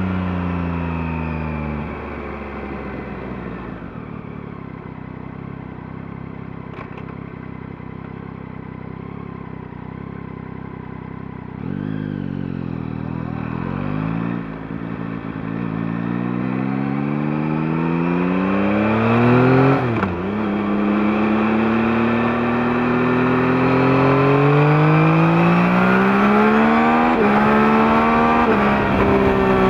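A 2021 Yamaha MT-09's 890 cc inline-three (CP3) engine, on its stock exhaust, heard from under the seat. It winds down and runs low and steady for about ten seconds. Then it pulls away and revs up through the gears, with a sharp drop in pitch at an upshift about twenty seconds in, and it rises again.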